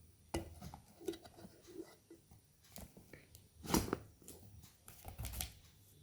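Faint, scattered handling noises of unboxing: packaging being handled and opened, with a few light knocks and rustles, the loudest a little under four seconds in.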